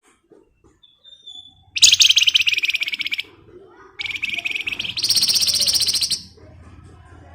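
Javan tesia (wergan Jawa) singing: after a faint short note, two loud, rapid buzzing trills of a second and a half and two seconds, the second jumping higher partway through.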